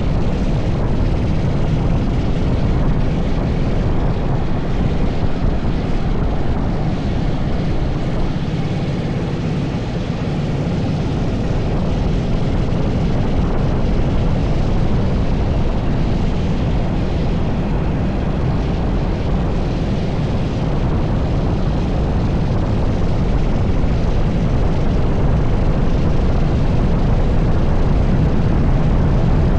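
80cc TS5 racing kart engine running hard on track, heard from onboard. Its level dips briefly about ten seconds in, then builds again.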